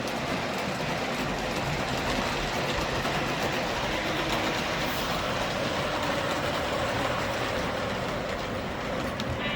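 O gauge model trains running around the layout's track: a steady, continuous rumble of wheels on rail and electric motors.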